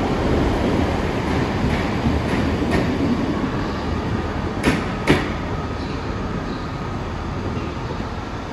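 Train rolling along the track with a steady rumble, its wheels clicking over rail joints: two sharp clicks in quick succession about halfway through, with fainter ones before, as the noise slowly fades.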